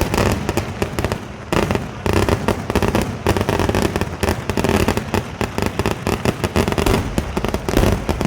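Kerala temple-festival fireworks (vedikkettu): a rapid, dense string of firecracker bangs going off almost continuously, with a brief lull about a second and a half in.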